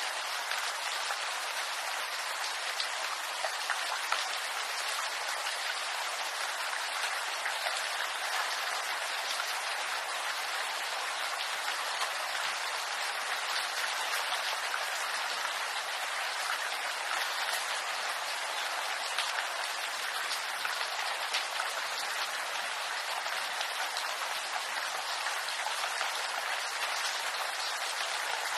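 Steady rain falling on bamboo leaves: an even hiss made of many small drop hits, with no lulls or changes in strength.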